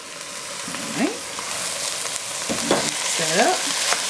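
Corn kernels and peppers sizzling in a hot enamelled cast-iron pot as they are stirred with a wooden spoon, with a few short squeaks over the steady sizzle.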